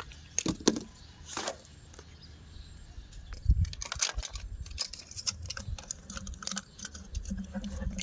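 Irregular light clicks, taps and rattles of small parts and tools being handled, with a couple of dull knocks about three and a half seconds in.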